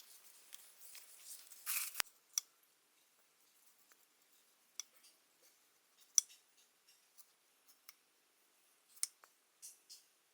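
Irregular sharp clicks and short snips, a few seconds apart, with a brief rustling burst just before two seconds in.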